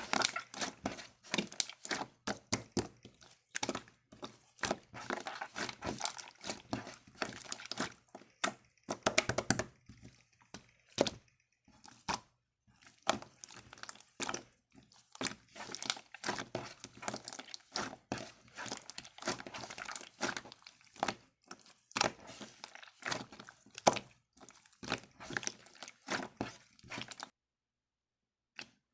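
Slime being squished and pressed by hand, a dense, irregular run of wet crackles, pops and clicks that stops a second or two before the end.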